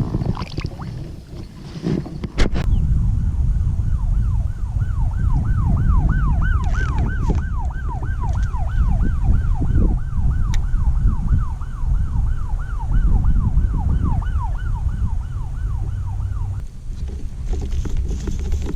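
A rhythmic mechanical squeak from the kayak's fishing gear, dipping and rising in pitch about three times a second; it starts a few seconds in and stops near the end. Wind rumbles on the microphone throughout, with a couple of knocks early on.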